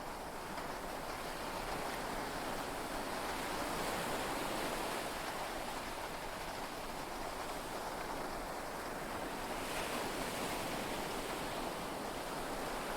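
Heavy rain and sea waves together make a steady rushing wash that swells gently twice and eases again.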